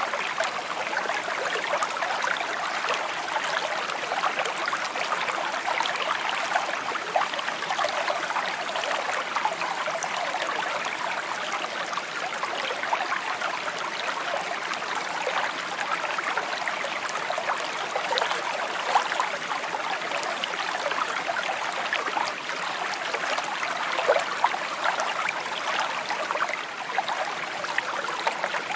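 Shallow creek water babbling and trickling over stones, a steady gurgle with small splashes.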